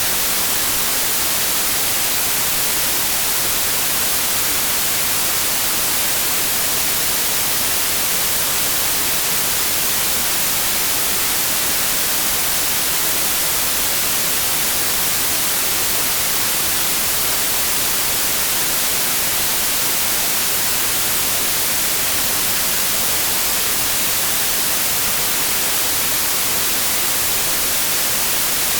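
Steady synthetic white noise: an even, unchanging hiss, strongest in the treble.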